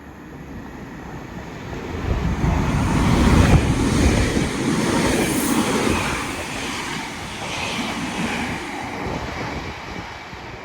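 Class 331 electric multiple unit passing through the station at speed: the rush and rumble of wheels on rail swells to its loudest about three and a half seconds in, then slowly fades as the train moves away.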